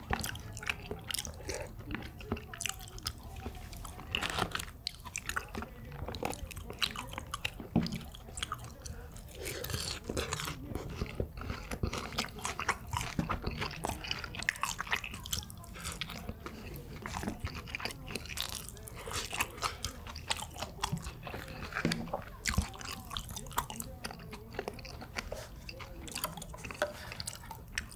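A person chewing and biting food close to the microphone: a steady run of crunches and wet mouth clicks.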